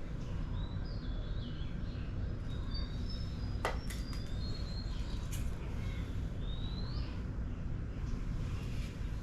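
Small birds chirping with short high calls and whistles, one rising whistle about two-thirds of the way through, over a steady low background rumble. A single sharp click comes about a third of the way in.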